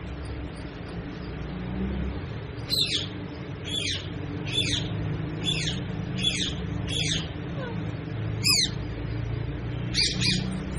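Parrot giving a string of about nine short, sharp calls, each dropping quickly in pitch, starting a few seconds in, over a steady low background hum.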